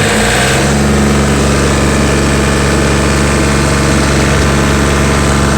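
John Deere 4210 tractor's diesel engine being throttled up from idle. Its pitch rises in the first half second, then it runs steadily at higher revs, heard from inside the closed cab.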